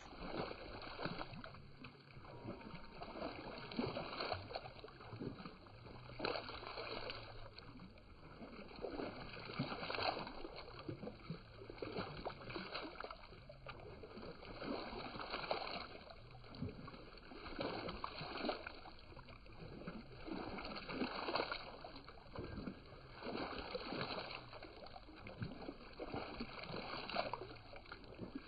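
Water splashing and gurgling in a puddle, rising and falling in swells about every two seconds.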